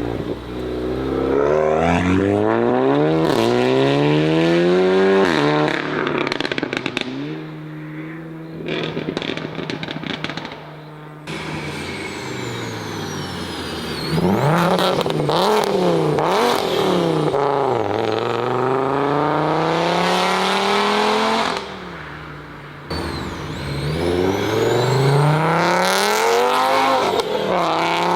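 Modified Volkswagen cars accelerating hard, each engine note climbing in pitch and dropping back at the gear changes. It comes in several separate runs that break off suddenly, with a few quick blips of the throttle in the middle.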